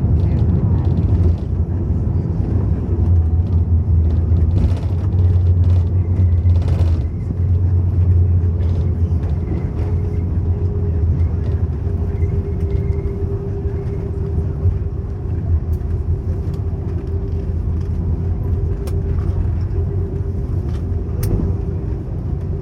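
Steady low rumble of an airliner heard from inside the cabin, with a faint steady hum from about ten seconds in.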